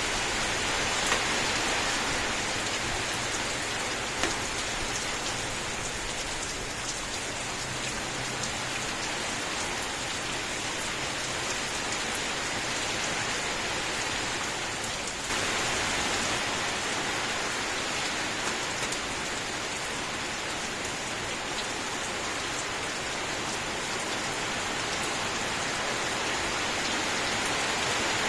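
Steady rain falling on a surface, a dense even patter of drops, with a couple of louder single drips about one and four seconds in and a sudden small shift in the sound about fifteen seconds in.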